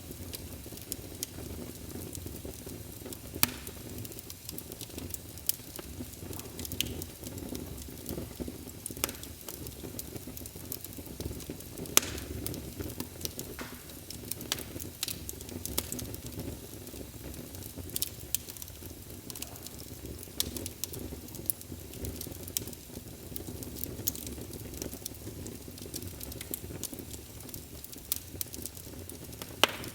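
Wood fire in a fireplace, crackling with frequent sharp pops over a steady low rumble, a few pops much louder than the rest.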